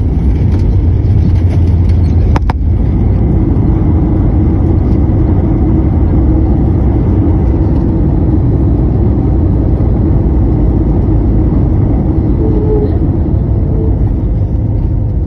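Steady, loud low rumble of a passenger jet heard from inside the cabin during landing, with a single sharp click about two and a half seconds in.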